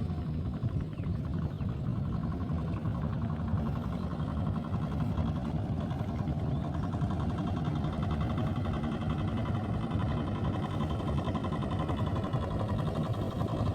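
Boat engine running steadily at an even pace.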